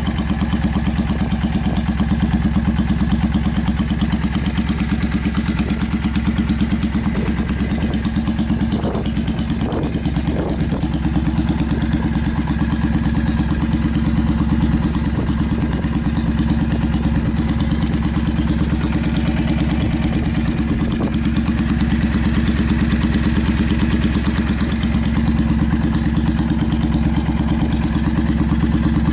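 Yamaha Drag Star 400 V-twin motorcycle engine idling steadily through short trumpet-style twin exhausts.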